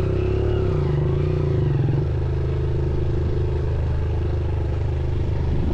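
Motorcycle engine running, its pitch wavering up and down a little in the first two seconds, then holding steady.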